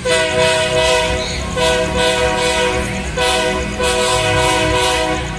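Locomotive multi-chime air horn sounding three blasts, a chord of several steady tones, the third blast the longest.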